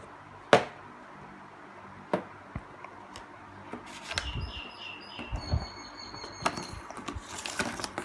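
Toy animal figures being handled and set down on a surface: scattered clicks and knocks, a sharp one about half a second in, with low handling thuds around the middle. A brief high-pitched whistling tone sounds over the middle too.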